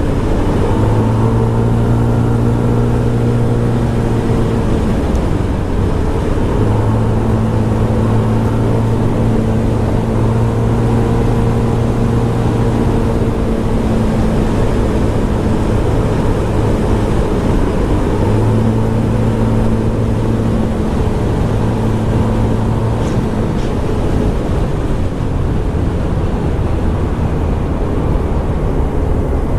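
Scomadi TT125 scooter's 125 cc single-cylinder four-stroke engine running at cruising speed, with a steady rush of wind and road noise. The engine tone holds steady, then drops back into the wind noise several times, as when the throttle is eased.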